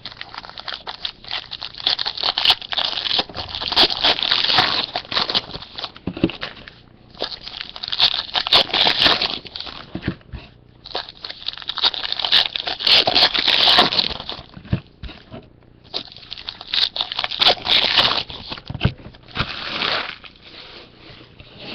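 Plastic and foil wrapping of football trading card packs being torn open and crinkled by hand, in four long spells of crackling with short pauses between.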